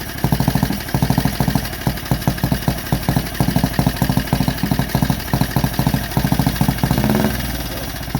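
Vintage motorcycle engine idling with uneven firing beats, about eight a second. The beats thin out and the engine dies away about seven seconds in.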